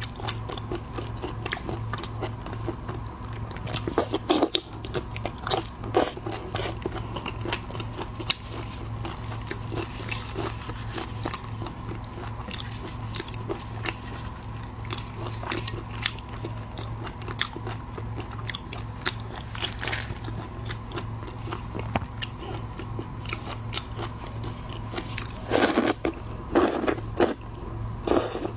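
Close-up crunching, biting and chewing of seafood, with bursts of loud crunches about four seconds in and again near the end. A steady low hum runs underneath.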